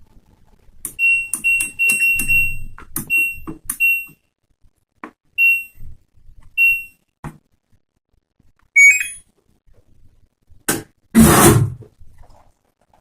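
LG front-load washing machine's electronic beeper giving a series of short, high, steady-pitched beeps, several close together in the first few seconds and then two single beeps. A sharp click and then a short loud rushing noise come near the end.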